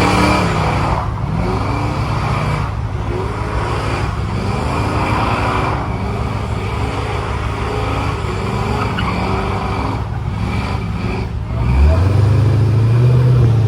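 Car engine running under way, its pitch rising and falling again and again as it accelerates and shifts, over steady road noise. A loud, deep steady hum comes in near the end.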